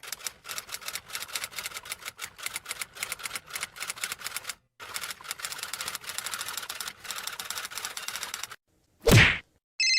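Rapid clattering of typing keys, like a typewriter, in two runs with a brief break between them, followed near the end by a short, loud falling swoosh.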